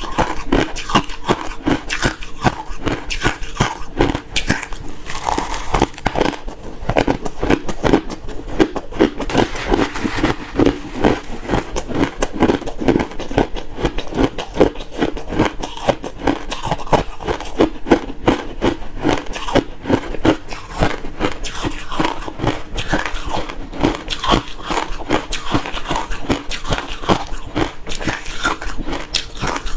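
Close-up crunching of refrozen crushed ice being chewed: a dense run of rapid, crackly bites with no pauses.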